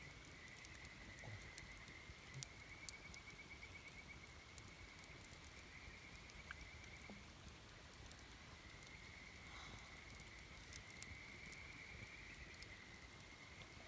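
Faint wood campfire with sparse crackles and pops, under a steady high trilling chorus that breaks off for about a second midway.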